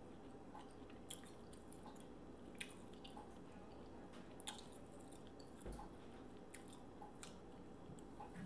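Faint mouth-closed chewing and the small cracks of a boiled seafood shell being peeled apart by fingers, with scattered sharp clicks every second or so over a faint steady hum.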